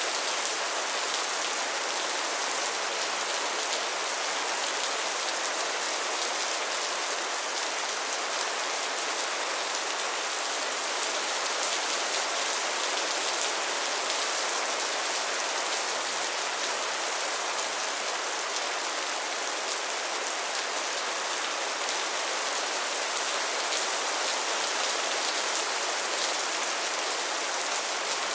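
Steady rain falling, a dense even patter of drops with fine crisp ticks of individual drops through it.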